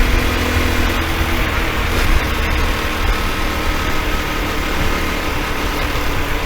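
Honda Super Cub's single-cylinder four-stroke engine running steadily at idle, without the clicking noise it had before, a noise the owner suspects came from the piston striking something.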